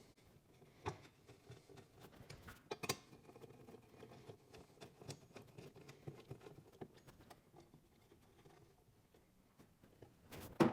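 Faint, irregular metallic clicks and light scraping of a 4 mm Allen key turning countersunk bolts tight into a steel mount, with a few sharper ticks and a louder click near the end.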